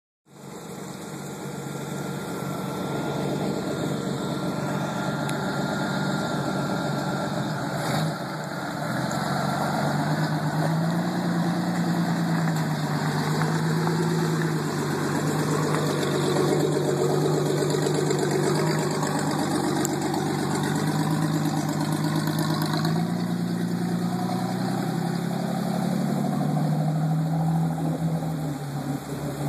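Jeep Cherokee XJ engine running, its revs rising and falling several times.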